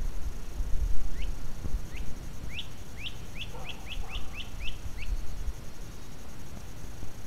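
A bird singing: a series of about a dozen short rising notes that come faster and faster, then stop.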